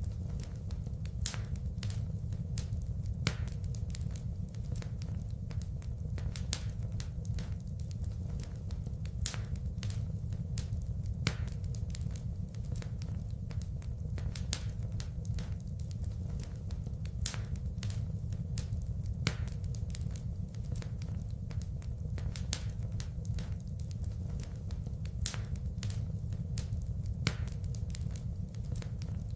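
Wood fire crackling, with many small irregular pops and a few louder snaps over a steady low rumble of burning.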